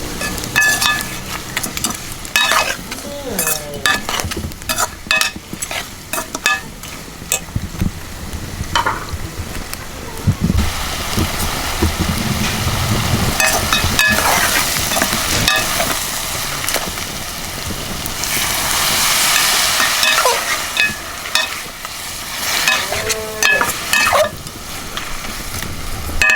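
Beef ribs frying in hot oil in a pot, sizzling, while a metal spoon stirs and scrapes against the pot in repeated clinks. The sizzle grows louder about ten seconds in.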